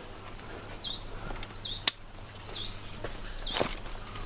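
A bird repeating a short high chirp about twice a second, over footsteps and dry brush rustling on a dirt trail. A single sharp click just before two seconds in is the loudest sound.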